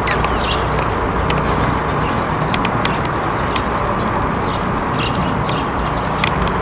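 Small birds giving short, high chirps, with sharp ticks and clicks scattered throughout, over a steady rushing background noise.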